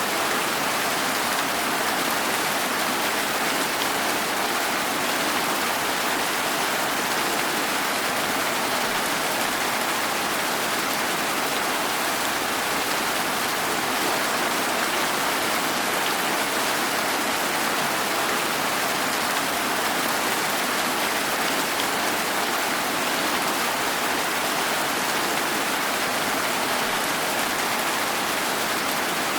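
Steady rain falling and pattering on surfaces, an even hiss that doesn't change.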